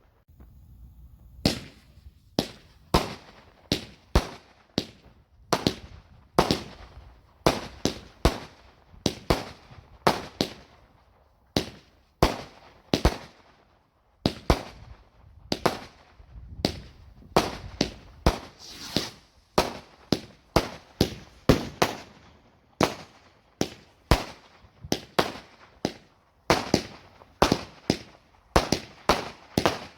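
Fireworks going off: a long, irregular run of sharp bangs, about one or two a second, each with a short crackling tail.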